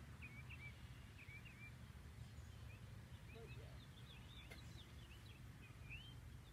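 Faint outdoor ambience: small birds chirping in short repeated notes over a steady low rumble.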